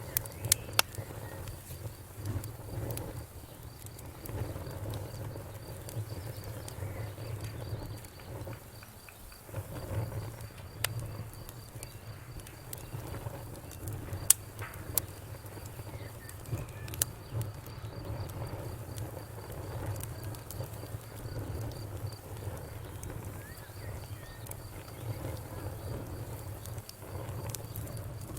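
Wood fire crackling, with irregular sharp pops over a steady low rumble; one of the loudest pops comes about halfway through. A faint, evenly pulsing high tone runs underneath.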